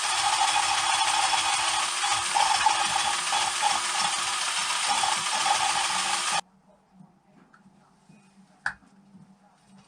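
Dremel rotary tool grinding carbon deposits off a motorcycle cylinder head, a steady wavering whine over a harsh grinding noise that stops abruptly about six seconds in. After that comes faint room sound and a single click.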